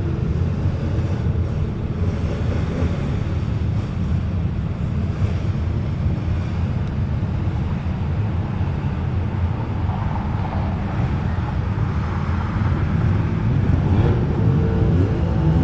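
Car engine and exhaust running at low speed with a steady, deep rumble, swelling slightly near the end.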